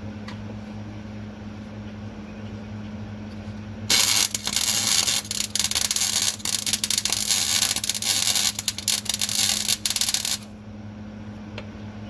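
Steady electrical hum, then about four seconds in a loud crackling, sputtering hiss for some six seconds that cuts off suddenly: a MIG welder laying a bead on the new straight exhaust pipe.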